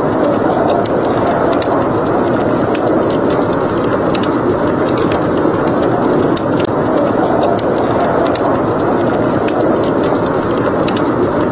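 Wood fire crackling with irregular sharp pops and snaps over a steady rush of snowstorm wind.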